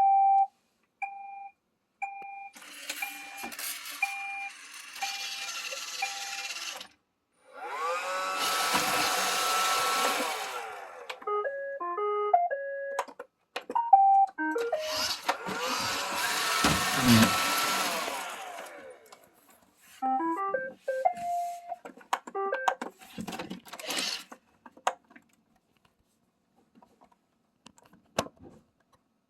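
iRobot Roomba 531 robot vacuum playing electronic beeps and short tunes. Twice its motors whine up to speed and run for a few seconds with a loud rushing noise, with more note sequences between the runs. Scattered clicks follow near the end.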